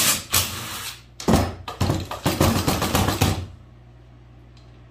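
Rapid, irregular knocking and tapping on a hard surface, like a hand drum roll on a workbench, lasting about three and a half seconds and then stopping, with a low steady hum underneath.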